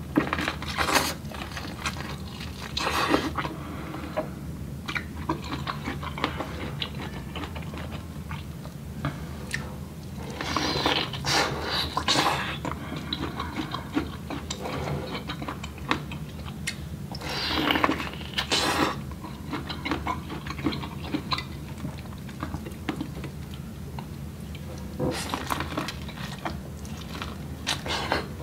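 Close-up eating sounds: bites into a cob of corn and chewing, irregular crunches with louder spells about 3, 11 and 18 seconds in. A steady low hum runs underneath.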